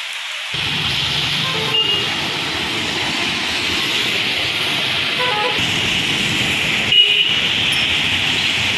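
Heavy rain hissing down on a town road while traffic passes through the water. A low rumble of vehicles joins about half a second in. Short horn toots sound near two seconds and five seconds in, and a louder one about seven seconds in.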